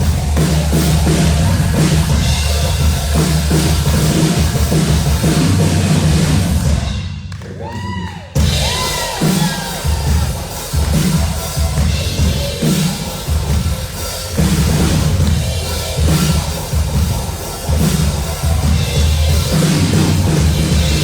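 Rock band playing with a full drum kit, bass drum and cymbals. About seven seconds in the band drops out briefly and a few sliding tones are heard, then the full band comes back in.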